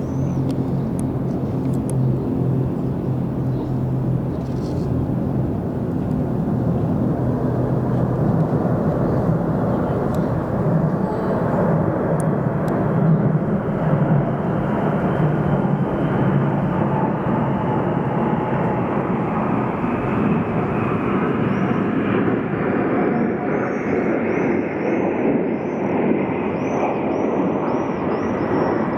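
Aircraft flying overhead in a parade flypast: a continuous loud roar that swells slightly about a third of the way in.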